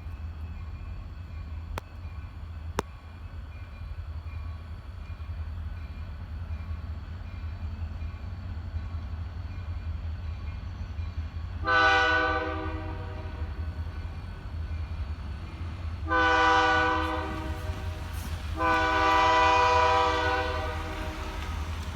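Diesel locomotive's air horn sounding three blasts for a grade crossing, about 12, 16 and 18.5 seconds in, the last one the longest, over a steady low rumble.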